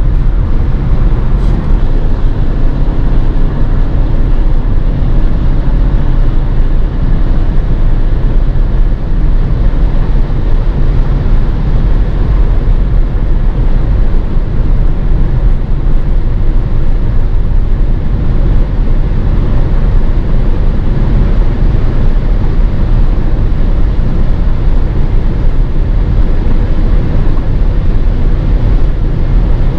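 Steady road and wind noise with engine rumble inside a 2016 Volkswagen Passat at high motorway speed.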